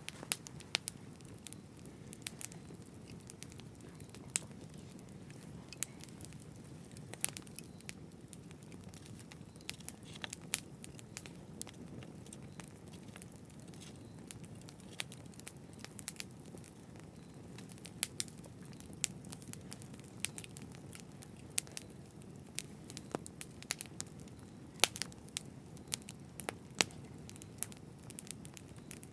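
Wood fire burning, with a steady low rumble and frequent sharp, irregular crackles and pops from the burning wood.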